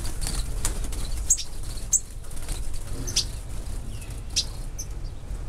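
Small aviary birds giving short, sharp high chirps every second or so, with wings flapping as birds flutter about.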